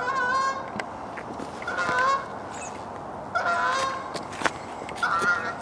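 Canada goose honking four times, a call about every second and a half to two seconds, with a single sharp click about four and a half seconds in.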